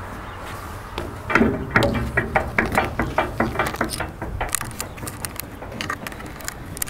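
Footsteps and clanks on a display locomotive's metal steps as someone climbs up into the cab: a quick run of knocks, about four a second, starting about a second in, thinning to scattered knocks after about four seconds.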